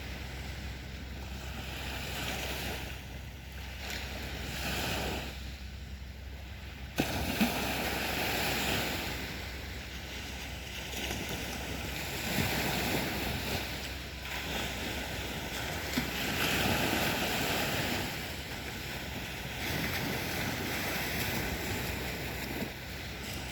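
Black Sea surf breaking on a beach, the wash swelling and easing every few seconds, with a sudden rise in level about seven seconds in.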